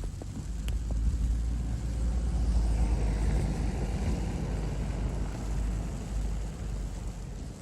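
A car driving past on a snowy street, its engine and tyre noise swelling to a peak about three seconds in and then fading away.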